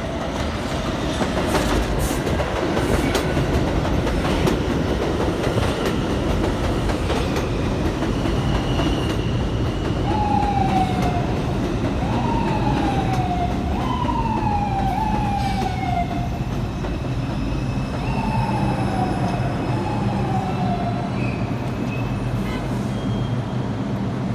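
Inside an R142 subway car on the move: a steady rumble of the train running on the track, with scattered clicks and clatter from the wheels. From about ten seconds in, a string of short falling whines repeats for about ten seconds.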